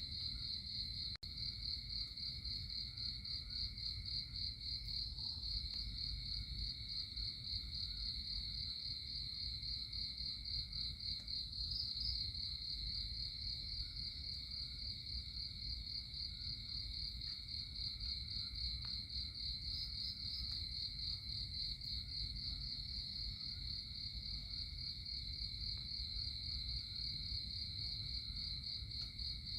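Crickets trilling steadily in a continuous high, finely pulsing chorus over a low background rumble. The sound cuts out for an instant about a second in.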